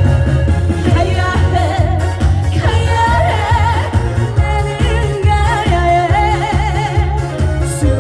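A female voice singing a Korean trot song with wide vibrato over loud backing music with a strong bass beat.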